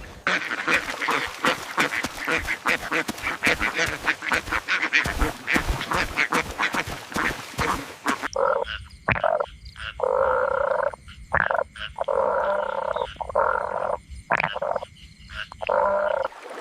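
Animal calls: a fast run of clicking calls, then, after an abrupt change about eight seconds in, a string of trilled calls about a second long each with short gaps between them.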